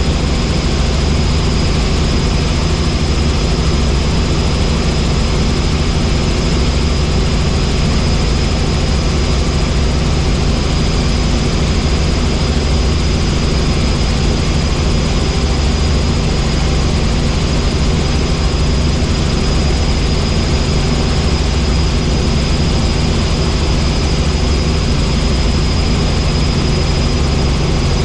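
Helicopter in steady flight: a constant low rotor and engine drone with a thin, steady high whine on top, unchanging throughout.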